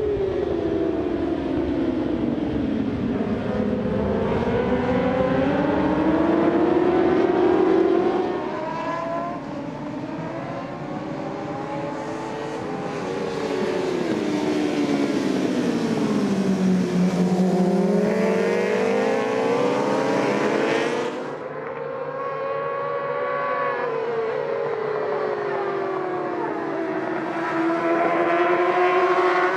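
Superbike racing motorcycle engines at high revs. The pitch climbs and drops in long sweeps several times as the bikes accelerate and slow for corners. About two-thirds of the way through the sound turns suddenly duller.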